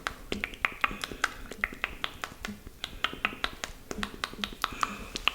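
Close-miked wet mouth sounds of ASMR spit painting: a quick, uneven run of lip smacks and tongue clicks, several a second.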